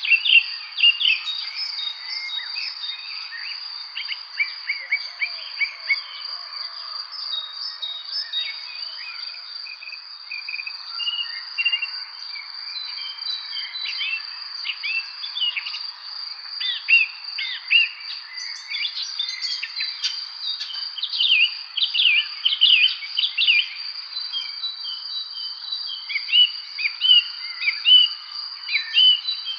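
Evening spring birdsong: many short chirps and whistled notes from several birds, thickest in the middle of the stretch, over a steady high insect trill.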